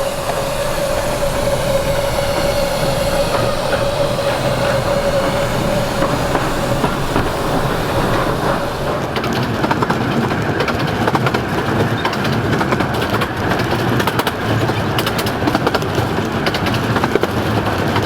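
Miniature-railway train running along the track, heard from aboard: a steady rumble with a steady squeal for roughly the first half, then rapid clickety-clack of the wheels over rail joints.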